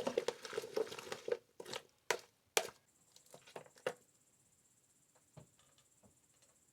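A run of small, irregular clicks and knocks from cookware and food being handled, fading out after about four seconds. From about three seconds in, a steady high chirring of crickets starts and carries on.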